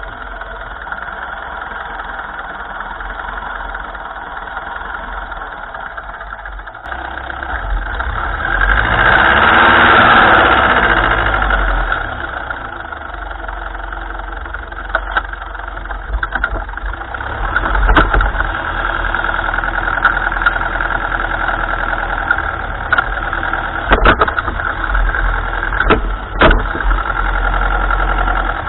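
1955 Ferguson tractor engine running steadily, swelling louder with shifting pitch for a few seconds about a third of the way in, with several sharp knocks or clanks in the second half.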